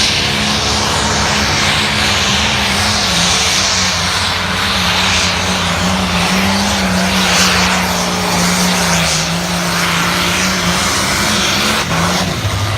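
A limited pro stock pulling tractor's diesel engine running at full throttle under load as it drags the sled, a loud steady roar whose pitch eases slowly downward. The engine note breaks off near the end.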